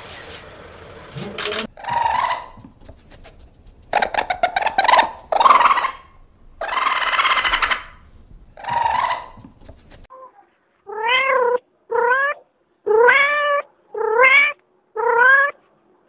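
A raccoon vocalizing in several bursts: quick chattering clicks and a longer hissing snarl. This is followed by cat meows, five short calls about a second apart, each rising and then falling in pitch.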